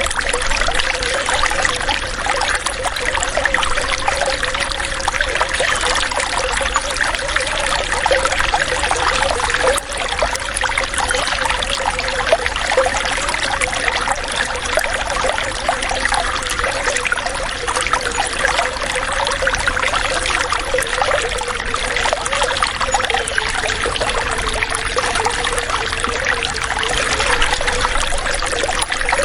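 Water running and trickling steadily, a continuous babbling flow with no pauses.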